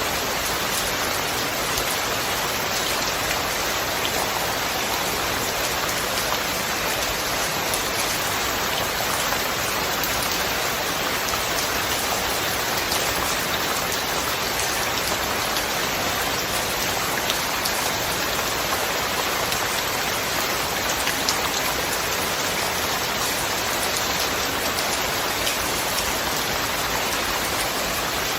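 Steady rain falling and pattering on a surface, an even hiss with scattered individual drop ticks and no thunder.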